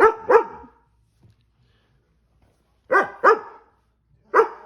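Dog barking in short, sharp barks: a pair at the start, another pair about three seconds in, and a single bark near the end.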